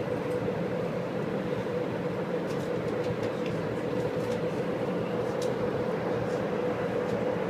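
Steady hum and rumble inside a Las Vegas Monorail car, with a constant mid-pitched tone running through it and a few faint clicks.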